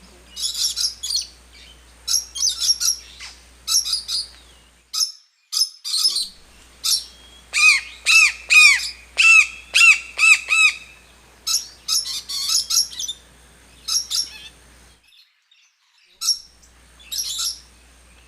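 Toucan calling: short, arched calls repeated about two a second in bursts, with higher chattering notes between them.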